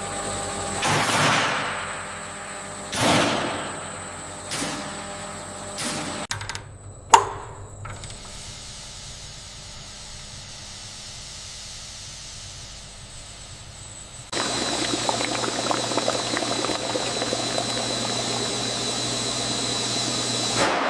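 Food-processing machinery and flowing liquid: several rising-and-falling whooshing swells, a single sharp clank about seven seconds in, then a steady running noise that jumps suddenly louder about two-thirds of the way through.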